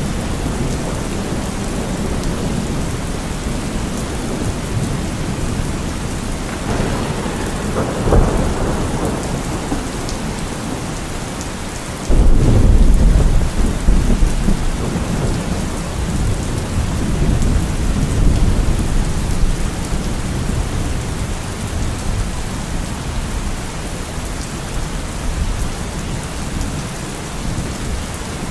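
Steady rain with thunder: a low rumble about seven to eight seconds in, then a sudden loud clap about twelve seconds in that rolls on as a low rumble for several seconds.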